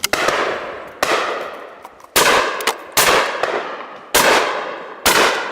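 Shotguns firing at driven pheasants: six shots about a second apart, each followed by a long decaying echo.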